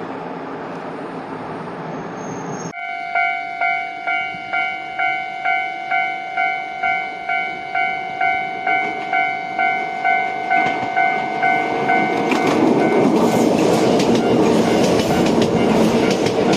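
Steady train running noise, then a sudden change to a Japanese level-crossing alarm ringing about twice a second. Near the end an electric train passes, its wheels clacking over the rail joints and louder than the alarm.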